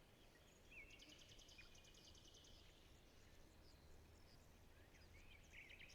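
Faint forest ambience of birdsong: a rapid, high trill about a second in, with scattered short chirps around it.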